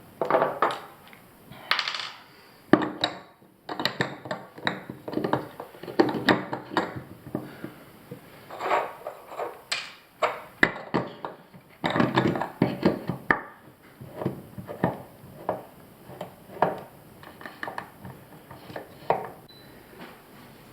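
Metal faucet parts and hand tools clinking, tapping and knocking at an irregular pace as a cartridge faucet is reassembled.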